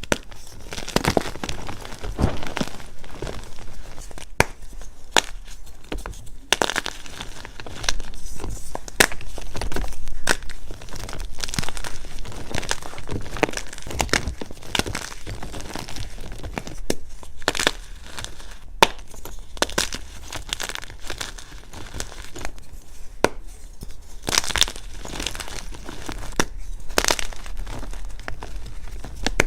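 Blocks of dyed gym chalk being crushed and crumbled, a dense, irregular run of crisp crackles and crunches with sharp snaps scattered through.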